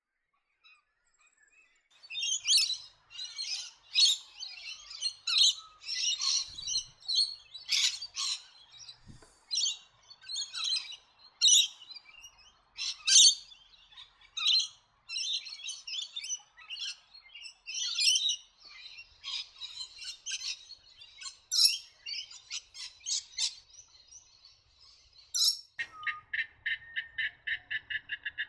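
Small birds chirping and calling busily, many short high calls overlapping one another. Near the end a different call takes over: a rapid, even trill of about seven or eight pulses a second.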